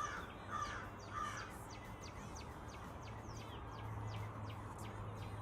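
A crow caws three times in quick succession, with many short, high, falling chirps from small birds throughout. A low steady hum comes in about halfway through.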